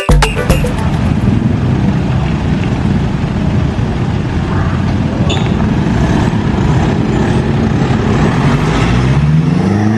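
Mitsubishi Pajero Sport diesel engine running through an aftermarket NDK exhaust with a steady low rumble, revving up with a rising pitch near the end.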